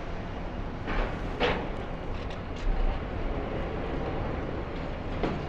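Demolition excavator's diesel engine running steadily, with a few short knocks about a second in.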